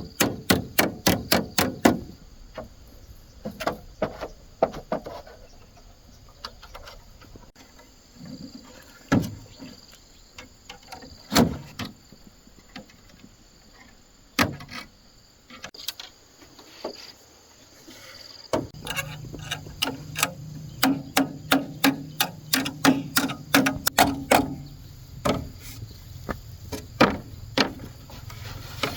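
Repeated sharp blows on bamboo, as in raft building: quick runs of about five strikes a second at the start and again in the last third, with single strikes in between. About two-thirds of the way in, a steady low hum starts up under the strikes.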